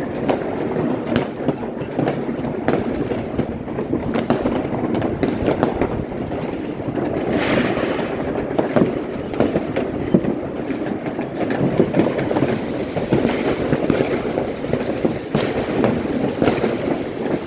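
Fireworks and firecrackers going off all around: a dense, continuous crackle with many sharp bangs, more of them in the second half.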